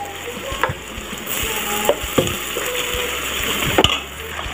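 Chopped vegetables sizzling in a steel pan while a steel spoon stirs them, with a few sharp scrapes and clicks of the spoon against the pan.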